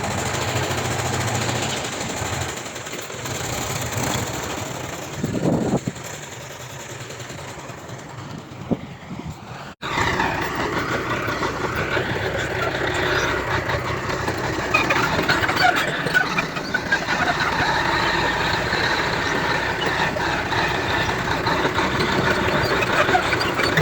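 Diesel engines of heavy earthmoving machinery running. A brief knock comes about five and a half seconds in. After an abrupt cut about ten seconds in, the machine sound is louder, with a dense rattling clatter.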